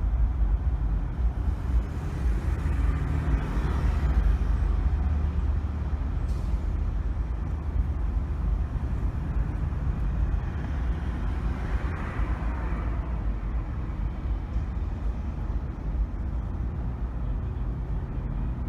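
A car driving through city traffic: a steady low rumble of engine and tyres on the road, swelling twice.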